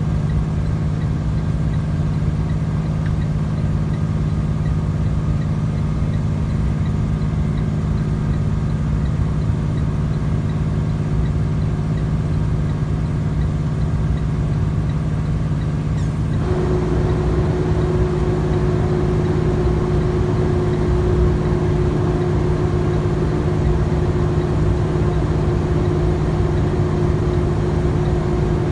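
Heavy truck's engine and road noise heard from inside the cab while driving, a steady low drone. About 16 seconds in the sound changes abruptly: a steady higher hum joins in and the noise grows slightly louder.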